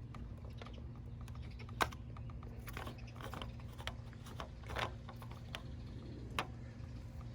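Irregular light clicks and taps of car parts being handled in the engine bay, with a few sharper knocks, over a steady low hum.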